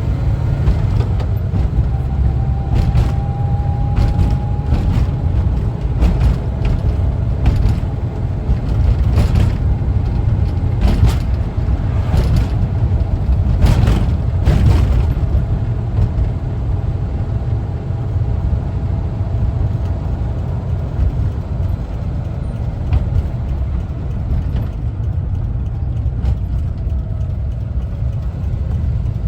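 1974 Volkswagen Westfalia camper van driving, its air-cooled engine and the road making a steady low rumble. A run of sharp rattles and knocks comes through for the first half or so, then the ride goes smoother.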